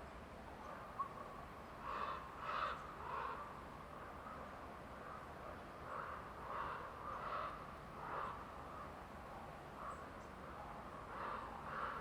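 A bird calling repeatedly in short series of three or four calls, a few seconds apart, over a steady forest background hiss.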